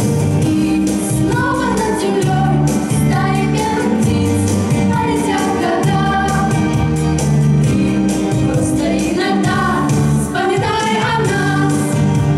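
A vocal group singing a song with instrumental accompaniment: sung melody lines rising and falling over sustained low chords.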